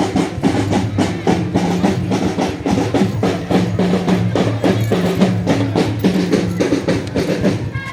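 Marching drum band percussion playing a fast, dense rhythm of snare and bass drum strokes.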